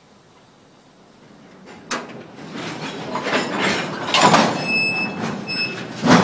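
Freight cars' couplers taking up slack as a standing cut of boxcars is pulled into motion: a sharp bang about two seconds in, then a growing run of clanks and rumble with two brief high squeals, and another loud bang near the end.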